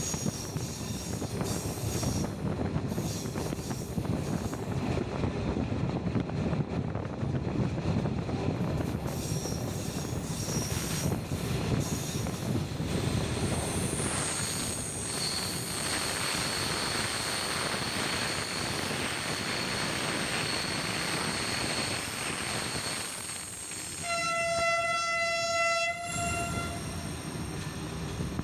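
Diesel-hauled passenger train running along, heard from a carriage window: a steady rumble of wheels on rail. From about halfway a steady high squeal rises over a hiss, typical of wheels grinding through a curve. Near the end the locomotive's horn sounds once for about two seconds.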